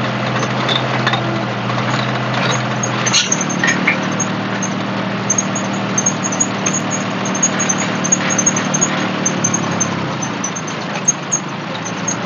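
Tractor diesel engine running steadily at idle; its note shifts about three seconds in, with small clicks over the top.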